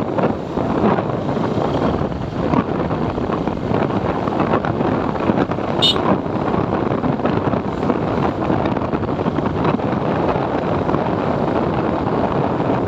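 Wind rushing over the microphone with road and engine noise from a moving motorcycle, a steady rushing sound; a brief high chirp about six seconds in.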